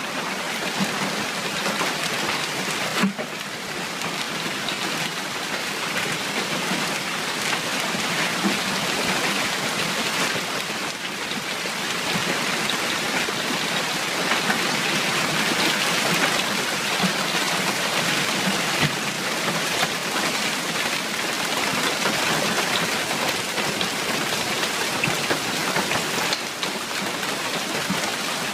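Heavy rain falling steadily, with a sharp knock about three seconds in.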